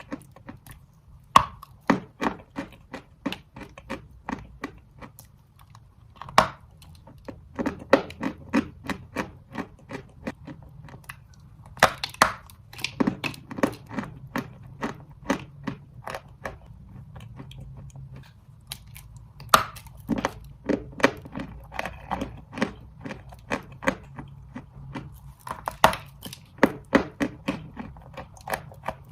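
A person biting and chewing dry red chalk: five sharp crunching bites, each followed by a run of quick crunching chews.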